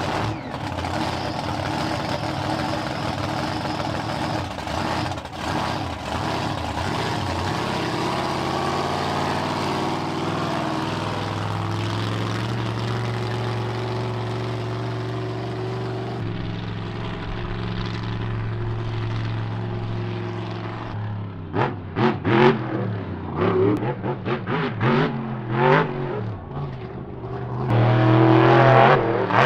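Monster truck engine running hard at high revs for about twenty seconds, then revved in a string of short, sharp blips near the end.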